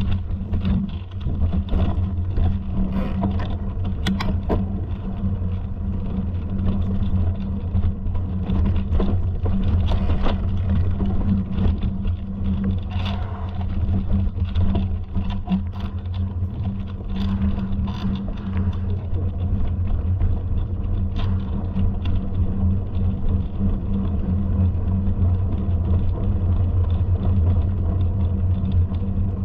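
Steady low rumble with frequent short knocks and scrapes throughout.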